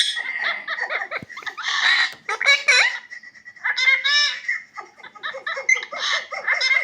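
Talking parrot chattering and mimicking laughter, a run of high-pitched speech-like calls and cackles with short pauses between them.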